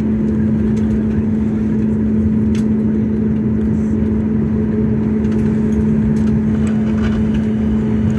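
Airliner cabin noise on the ground just after landing: a steady low engine and airflow rumble with a constant hum running through it.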